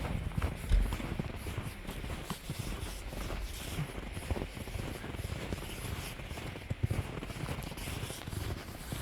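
Footsteps walking through snow, an irregular series of soft thumps.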